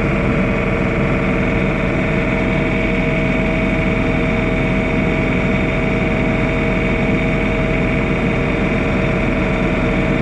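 Steady motor sound running without change, with constant tones from a low rumble up to a high whine.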